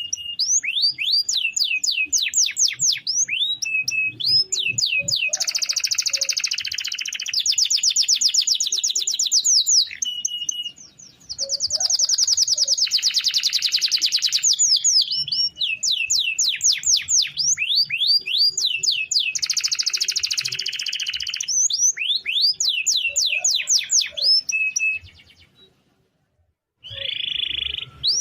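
Domestic canary singing a long rolling song: fast runs of repeated rising notes, buzzy rolls and short held whistles. It stops for about a second near the end, then starts again.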